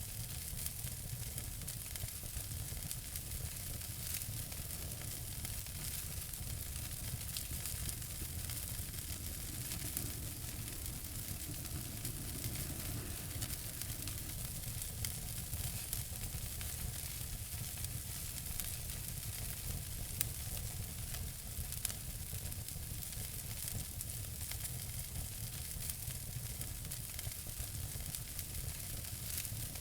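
Wood fire burning in a fireplace: a steady hiss with dense, fine crackling and an occasional sharper pop.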